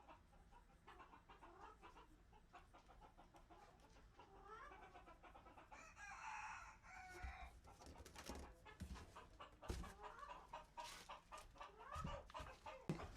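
Chickens clucking quietly, with one louder, drawn-out call about six seconds in and scattered clicks and rustles in the second half.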